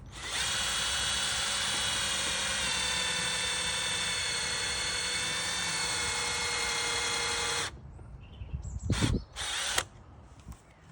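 Power drill with a 5mm bit drilling an oil hole into a Honda Super Cub's seized centre stand, into the stand's tube but not through the pivot pin: a steady motor whine for about seven and a half seconds that stops suddenly. Two short bursts of noise follow a second or so later.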